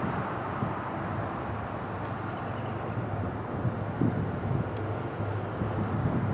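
Low, steady rumble of a Norfolk Southern EMD SD70ACE diesel-electric locomotive, its 16-cylinder two-stroke engine running as it leads a freight train. Wind buffets the microphone a few times.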